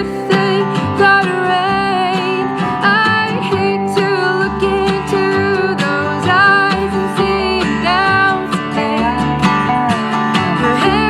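Band performing a country song: a voice singing over strummed acoustic guitar and a steady bass line.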